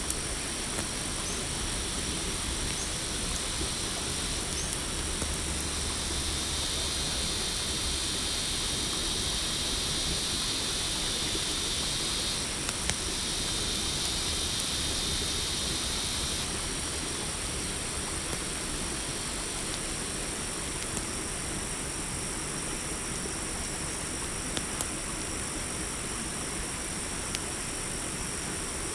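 Night-forest ambience: crickets and other insects trilling steadily over a constant low hiss, with a campfire crackling faintly now and then. A higher insect chorus swells in a few seconds in and fades out about halfway through.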